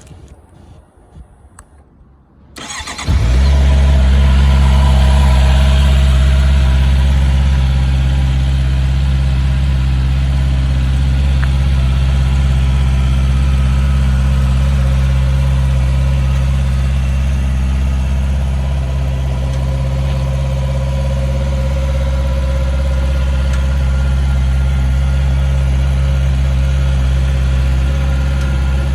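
Honda CBR650R's inline-four engine starting about three seconds in after a few small clicks, then idling steadily, a little higher just after it catches before settling.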